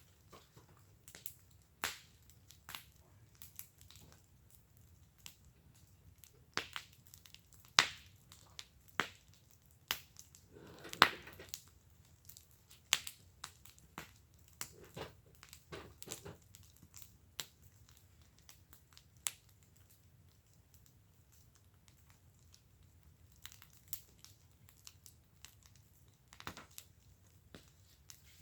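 Wood fire in a fire pit crackling, with sharp irregular pops and snaps. They come thick in the first half, with the loudest burst of crackle about eleven seconds in, and thin out to a few scattered pops later.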